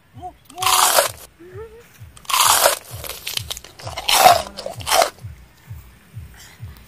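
Close-up crunching as sineguelas (Spanish plums) are bitten and chewed, with four loud crunches.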